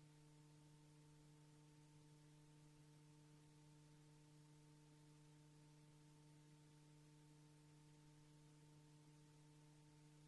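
Near silence with a faint steady electrical hum, a few fixed tones that never change, over light tape hiss.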